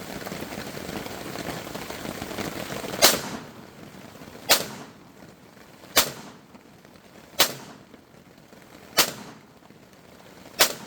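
Six pistol shots fired at a steady pace, about one and a half seconds apart, starting about three seconds in. Rain patters steadily before the first shot.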